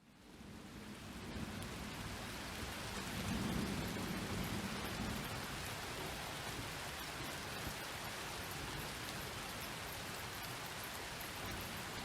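Steady rain with a low rumble of thunder swelling and fading a few seconds in. The sound fades in from a moment of silence at the start.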